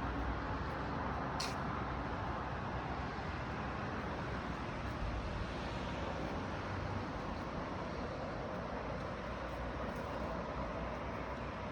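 Tofaş Doğan 1.6 ie's four-cylinder petrol engine running steadily, with one brief high hiss about a second and a half in.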